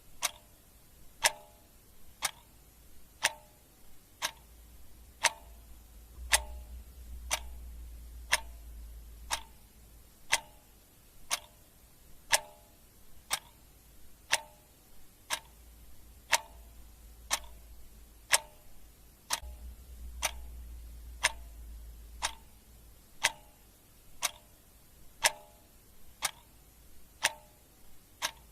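Clock ticking steadily at about two ticks a second, a tick-tock whose beats vary in strength.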